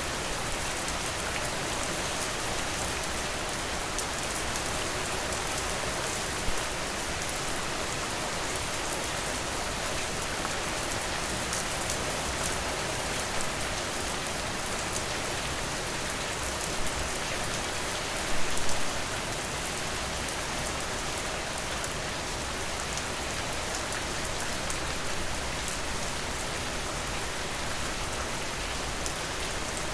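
Steady rain falling on a porch, an even hiss with a few brief louder pops or drops about six seconds in and a cluster around eighteen seconds in.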